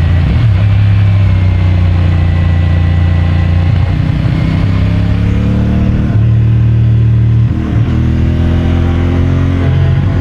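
CFMOTO 450MT's parallel-twin engine pulling through the gears, its pitch climbing and dropping back at each upshift.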